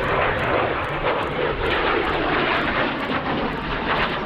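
Aircraft engine running steadily, a dense even noise with no clear pitch.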